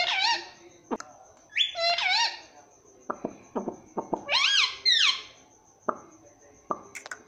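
Pet parrot vocalising: three pitched, bending calls, near the start, about two seconds in and around four and a half to five seconds, mixed with short sharp clicking sounds.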